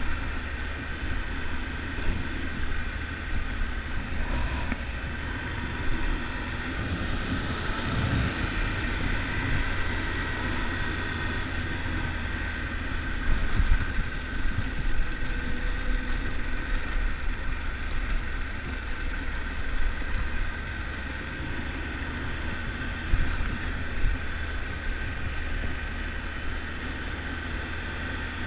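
Triumph Tiger 1200 motorcycle engine running steadily under way, with wind noise on the microphone and a few short knocks.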